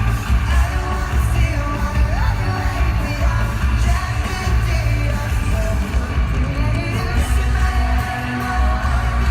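Live pop-rock band playing with singing, heard from within the audience, with a very heavy bass.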